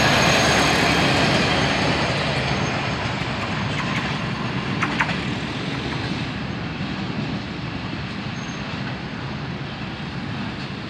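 Passenger train coaches rolling away on the rails after the last coach has passed, the rumble of wheels on track fading steadily as the train recedes. Two sharp clicks sound about five seconds in.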